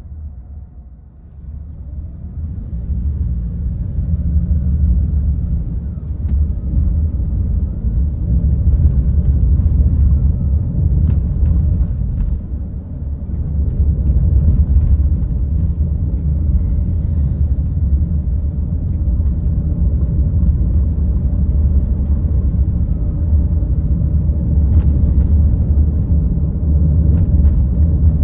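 Car on the move, heard from the car itself: a steady low rumble of engine and road noise. It drops briefly about a second in, then builds back up as the car picks up speed.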